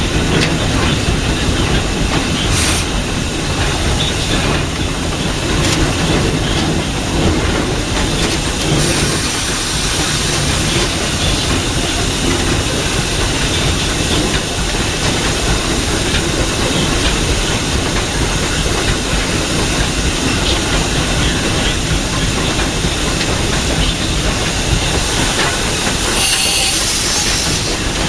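Narrow-gauge 4-6-0 steam locomotive #12 running, heard from its cab: a steady din of the engine and wheels on the rails, with a few sharp clicks in the first few seconds. Steam hiss grows stronger from about nine seconds in, and there is a short burst of louder hissing near the end.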